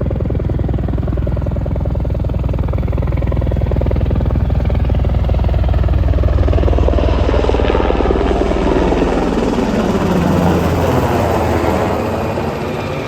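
A car engine running hard at high revs, a loud, fast-pulsing drone that swells and then falls in pitch and fades near the end, like a car passing by.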